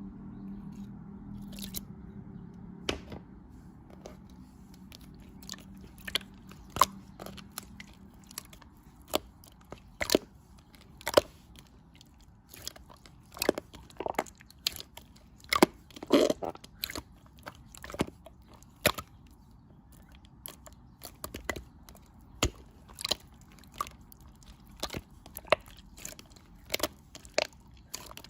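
Irregular sharp crunching and crackling, one or two crisp snaps a second, like something crunchy being bitten and chewed.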